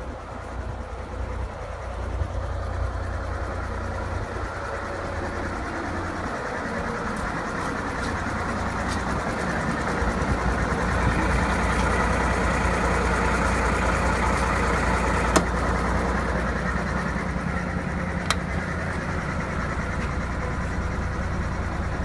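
DAF 2700 ATi truck's six-cylinder turbo diesel engine running, its sound building in the first seconds and growing a little louder before settling steady, with two short clicks in the second half.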